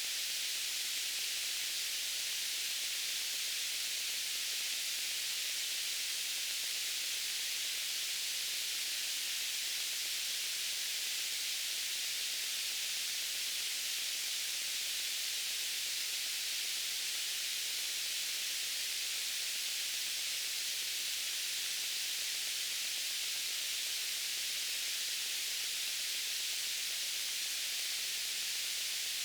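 Steady white noise: an even hiss, mostly high-pitched, with little low end.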